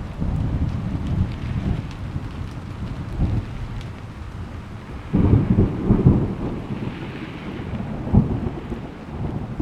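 Thunder rumbling over steady rain, with a heavy rolling peal about halfway through and a sharper crack a few seconds later.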